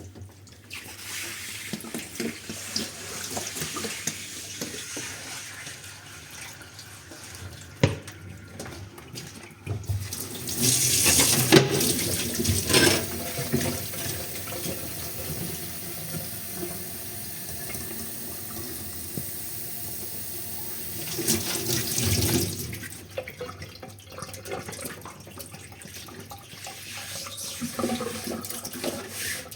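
Kitchen tap running into a sink while dishes are washed, the water heaviest from about ten seconds in until about twenty-two seconds in, with a sharp clink of dishware about eight seconds in and a few more while the water runs hard.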